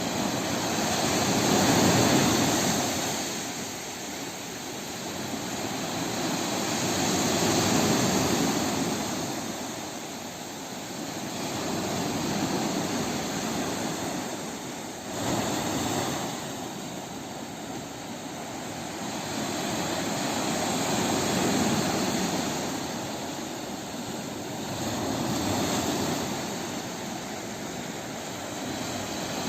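Sea waves breaking and washing in, a steady rushing roar that swells and fades every five or six seconds.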